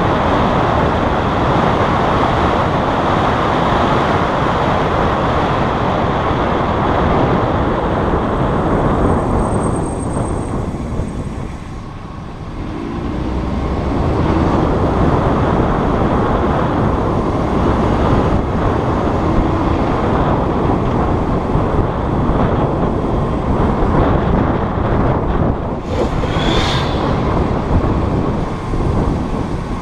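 Audi RS3 sedan driving, with steady road and running noise that dips briefly about twelve seconds in and then rises again. Near the end comes a short high-pitched brake squeal.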